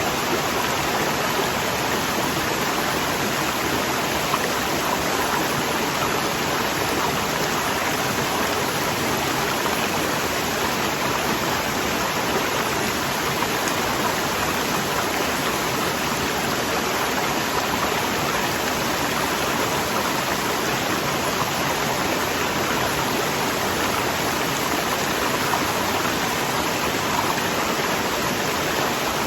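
Waterfall: rushing water falling steadily, an even, unbroken hiss that does not change.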